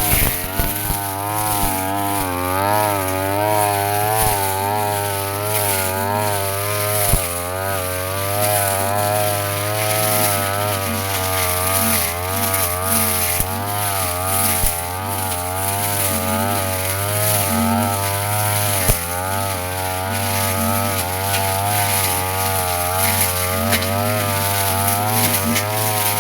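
Brush cutter engine running at high speed with its spinning blade cutting grass, the pitch wavering up and down continuously under the changing load. A few sharp ticks cut through it.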